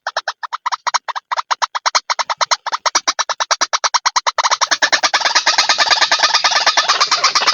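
White-breasted waterhen (ruak-ruak) calling in a rapid, even chatter of about ten harsh notes a second. It thickens into a denser, overlapping chorus from about halfway in. This is a looped lure recording of the kind played to draw waterhens in.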